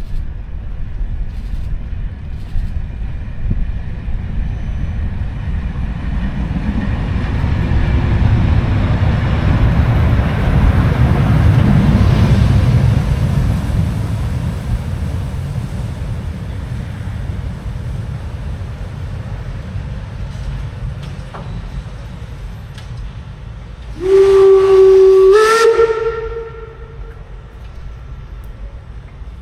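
Class 01 steam locomotive: a low rumble and hiss that swells to a peak and fades away. Near the end its steam whistle gives one loud blast of about two seconds, its pitch stepping up once partway through.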